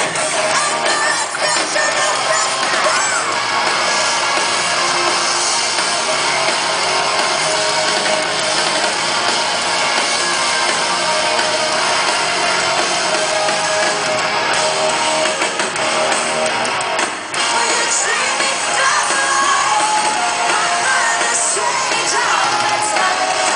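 Live rock band playing loud with electric guitars, with singing and shouting over it. The sound stays at one loud level, with a short dip about seventeen seconds in.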